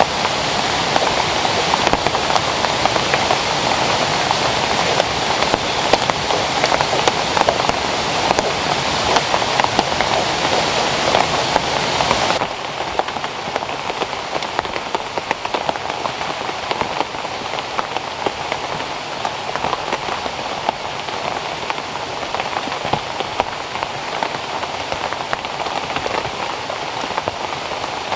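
Rain falling, a dense steady patter of many drops. About twelve seconds in it drops abruptly to a quieter patter.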